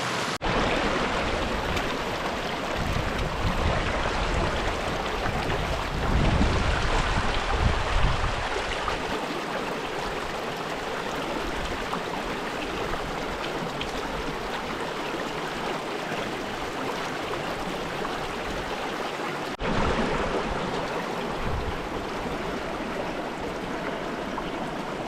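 Mountain creek rushing over rocks: a steady, loud wash of flowing water. There is extra low rumbling over the first several seconds.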